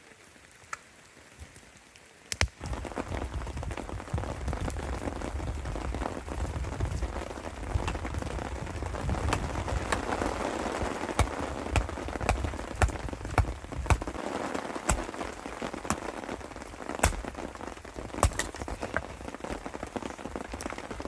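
Heavy, torrential rain falling, a dense hiss with many sharp ticks of large drops striking close by. It comes in suddenly about two seconds in after a quiet start.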